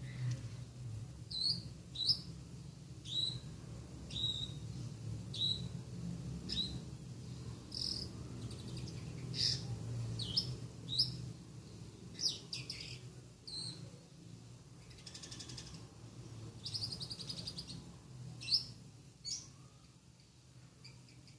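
Lovebird singing a series of short, sharp, high chirps about a second apart, with a few longer rasping notes, copying the song of a long-tailed shrike (cendet). A low steady hum runs underneath.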